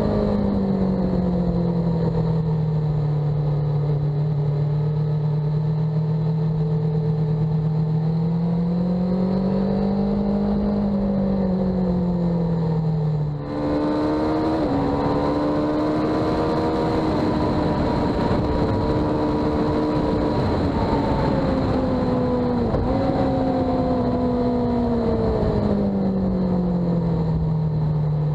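A vehicle engine running steadily, its pitch slowly rising and falling. It breaks off briefly about halfway through and picks up again at a higher pitch.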